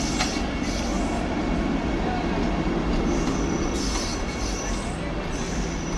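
Vande Bharat Express electric train running on the rails: a steady, unbroken rumble with hiss and a faint high squeal.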